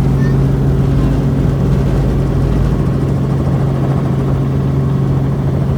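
Helicopter engine and rotor running with a steady, loud drone.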